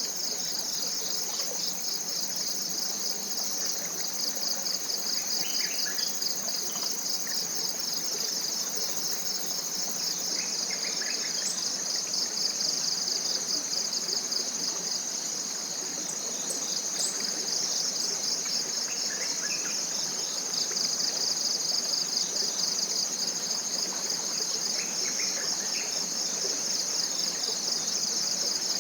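Dense chorus of forest insects: a steady, high, rapidly pulsing buzz. A few faint bird chirps come through now and then.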